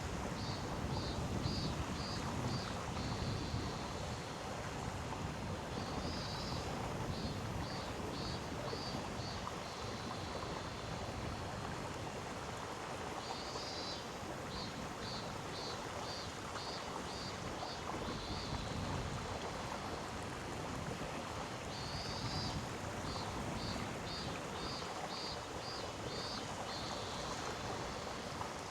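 Gorge stream flowing steadily. About every seven to eight seconds a high call repeats, a short buzz followed by about six quick pulses, from an insect or bird.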